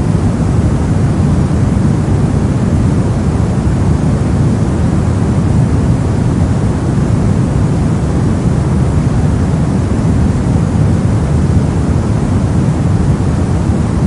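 Brown (red) noise: a loud, steady, unchanging hiss weighted heavily toward the deep end, with its energy fading toward the highs.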